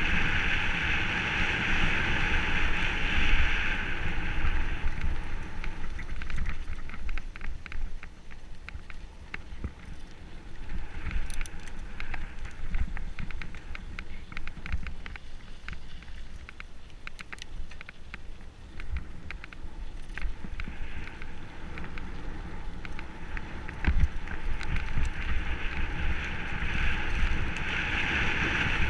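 Mountain bike running down a dirt forest trail: tyre and wind rush on the microphone, with many short rattling clicks and knocks from the bike over rough ground. The rush is louder at the start, eases off, and grows again near the end.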